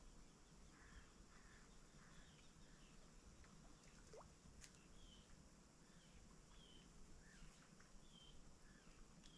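Quiet outdoor ambience with faint, scattered short bird chirps, a few a second, over a low steady hiss.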